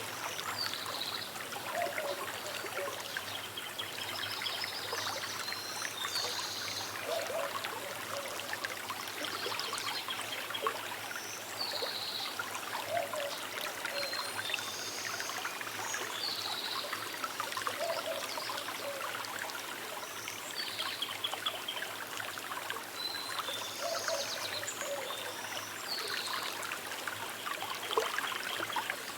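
Small river trickling steadily, with short bird calls scattered through it.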